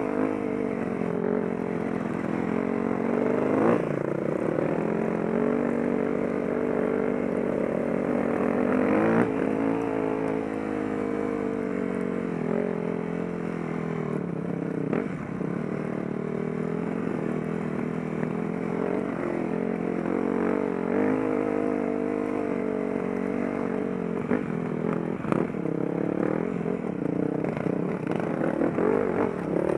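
Enduro dirt bike engine running under load on a rough trail, its pitch rising and falling as the throttle is worked, with a few short knocks.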